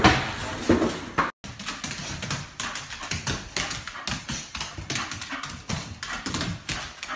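A dog's sounds with a quick, irregular run of taps and clicks, broken by a brief dropout about a second and a half in.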